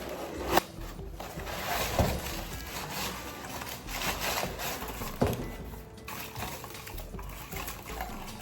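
Background music over the rustling of a parcel's packaging being handled and opened, with three sharp knocks about half a second, two seconds and five seconds in.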